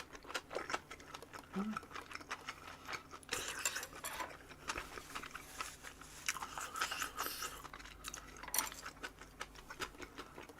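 Close-miked chewing and crunching of a mouthful of food, likely a wrap of boiled pork with kimchi and crisp vegetables. Irregular crisp crunches and small wet mouth clicks run on and off, with a few louder bursts of crunching.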